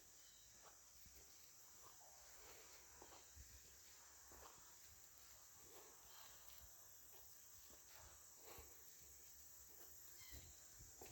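Near silence: a faint, steady high chirring of crickets, with soft footsteps.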